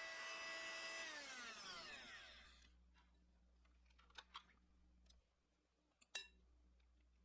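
Electric kitchen mixer running at a steady speed, then switched off about a second in, its pitch falling as the motor spins down to a stop. A few light clicks follow.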